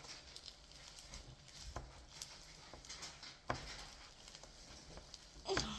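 Fingers pressing and poking a firm, hard slime, making faint scattered sticky clicks and pops.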